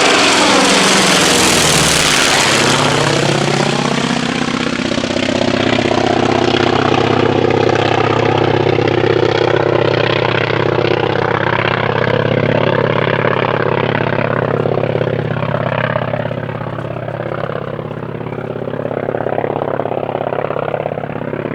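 North American T-28 Trojan's Wright R-1820 nine-cylinder radial engine in a low flyby: the engine note drops in pitch as the plane passes in the first couple of seconds, then settles into a steady drone that slowly fades as it flies away.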